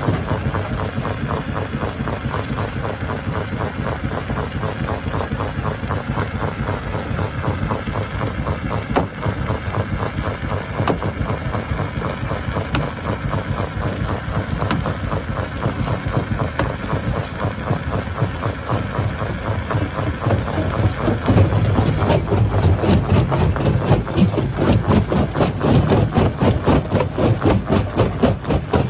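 Stone crusher machinery running: a steady, engine-like rumble with a rapid, even pulsing, which grows louder and sharper about three-quarters of the way through.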